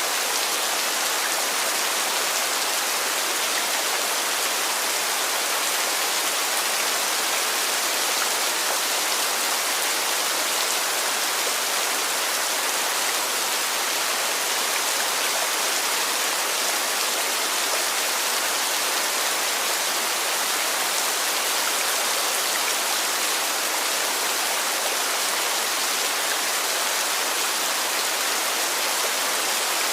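Heavy rain falling steadily: a dense, even hiss of rain on surfaces with no breaks.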